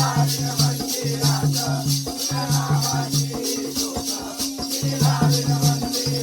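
Jakhadi folk dance music: a drum beating in quick runs of strokes under a steady drone, with a high rattling jingle keeping even time and a melodic line wavering above.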